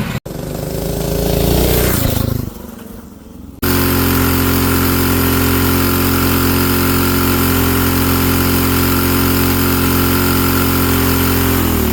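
Small mini bike engine revving up briefly and dying away, then, after a cut, running loud and steady at constant throttle for about eight seconds.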